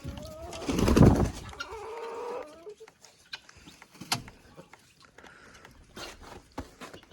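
Chickens clucking, with a loud brief rustling burst about a second in, then scattered small knocks and scratches.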